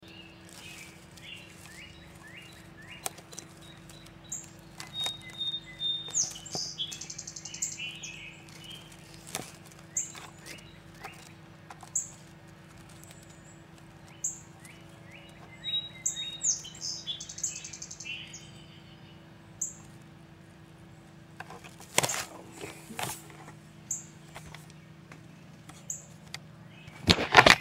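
Small birds chirping: repeated short, high chip notes and a few quick rapid runs of chips, over a steady low hum. A few sharp knocks and rubbing of camera handling come near the end.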